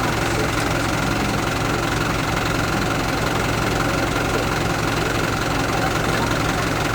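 Crane's engine running steadily at idle, a constant low drone during the lift.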